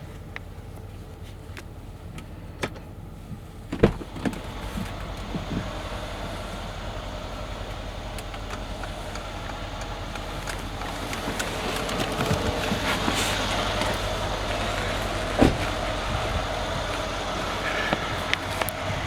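Mercedes ML63 AMG's V8 engine running at a steady idle, with a few sharp clicks and knocks; the sound grows louder and fuller about halfway through.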